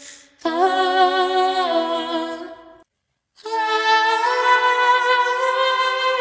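A cappella vocal music: voices holding long, steady sung notes in two phrases, with a brief silent break about three seconds in.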